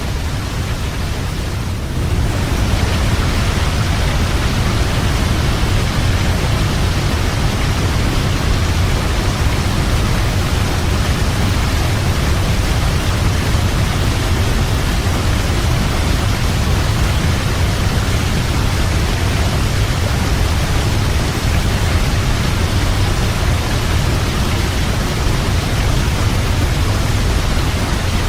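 Waterfall: a steady rush of falling water with a deep rumble underneath, growing louder and brighter about two seconds in and then holding even.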